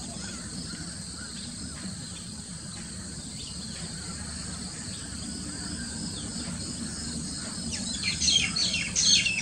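Wild birds calling over a steady outdoor background, with faint scattered high notes at first, then a burst of rapid high-pitched chirps about eight seconds in.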